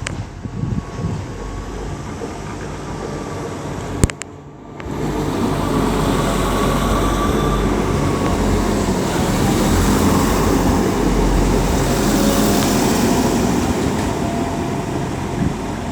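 Class 175 diesel multiple unit standing at the platform with its underfloor diesel engines running steadily, with a faint whine over the low hum. There is a sharp click about four seconds in, after which the sound is louder.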